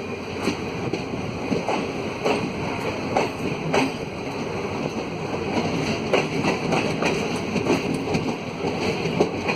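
Freight train rolling along the track: a steady rumble with repeated sharp clacks of the wagon wheels over the rail joints.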